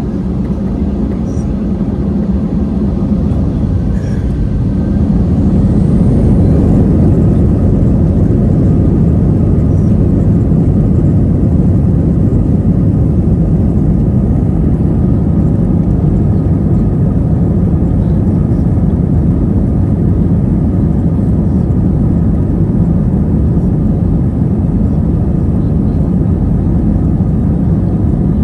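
Jet airliner engine and airflow noise heard inside the cabin: a loud, steady, low rumble that grows louder over the first six seconds, then holds steady.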